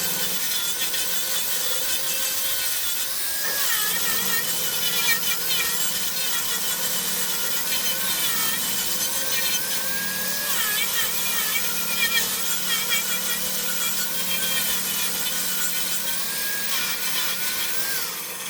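Wood lathe running with a tool working the spinning wood. A steady motor hum lies under a dense scraping hiss and a high, wavering whine.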